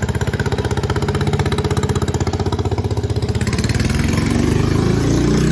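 An old tractor engine running close by with a rapid, even beat, its sound getting fuller and rougher about three and a half seconds in.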